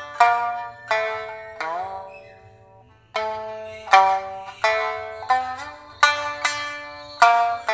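Solo shamisen playing a slow traditional melody: single plucked notes that ring and die away, one of them sliding up in pitch about a second and a half in, followed by a short pause before the notes resume.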